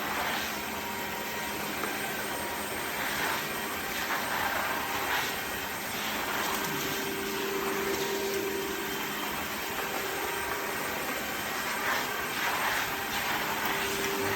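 Dreame H12S wet-dry vacuum mop running in auto mode: a steady motor whir with a low hum, swelling and easing every second or two.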